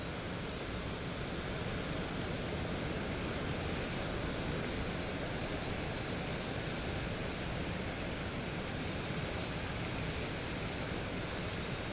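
Steady rushing noise of typhoon wind and heavy surf, with no single wave crash standing out.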